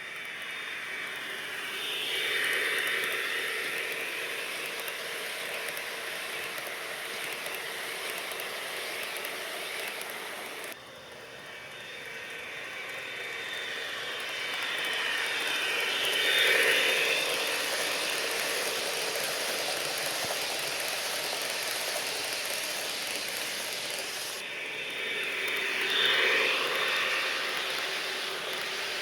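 HO scale model train running on its track: a GP40-2 diesel locomotive model with a DCC sound decoder, its wheels rolling and clicking over the rails with the decoder's diesel engine sound. The sound swells three times as the train passes close by, with two sudden shifts in the sound between them.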